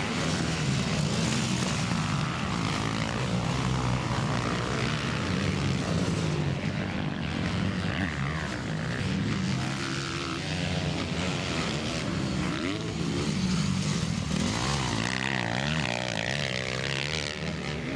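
Several motocross bikes racing together, their engines revving up and dropping off again, the overlapping engine notes rising and falling throughout.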